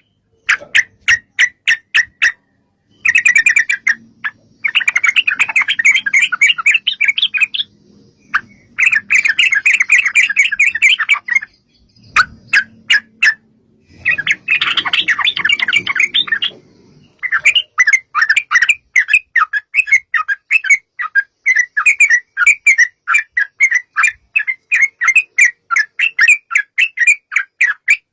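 Yellow-vented bulbul (trucukan) song: fast chattering runs broken by short pauses, then about halfway through a long unbroken string of sharp chirps at about four a second, the long 'ropel' rattle.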